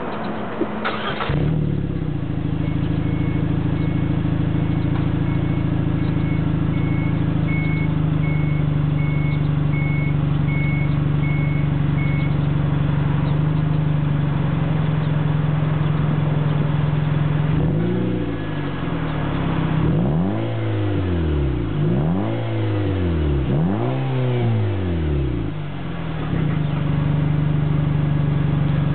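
Nissan Juke Nismo's 1.6 L turbocharged four-cylinder heard through an aftermarket SurugaSpeed rear muffler. It starts about a second in and settles to a steady idle. Around twenty seconds in it is revved three times in quick succession, then drops back to idle.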